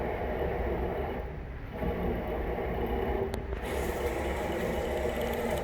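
Steady motor hum of a Bridgeport EZ Trak II CNC milling machine running, dipping briefly about a second and a half in, with a single sharp click past the middle.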